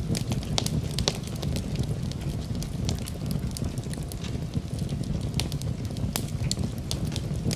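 Wood fire burning in a fireplace: a steady low rumble of the flames with sharp, irregular crackles and pops from the burning wood.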